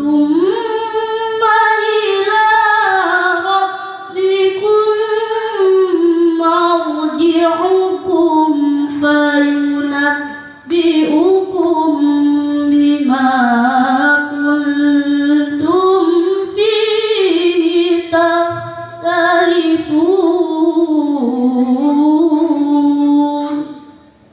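A woman's solo voice reciting the Quran in melodic tilawah style, unaccompanied, with long held notes that waver and bend through ornamented runs. The phrases are separated by brief breath pauses.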